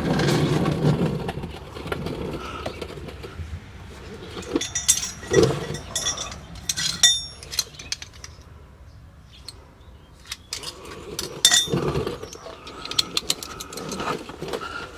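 Metal hand tools clinking and rattling as sockets and wrenches are picked up and handled, with scattered knocks and short metallic rings.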